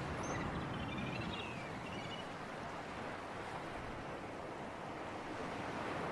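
Sea surf and breeze: a steady wash of waves that swells gently near the start and again near the end. A few faint high chirps sound in the first two seconds.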